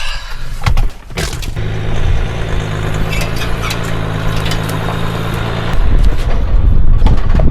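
A few sharp knocks, then a Jeep Wrangler's engine running steadily from about a second and a half in. Near the end it grows louder and deeper as the Jeep moves off.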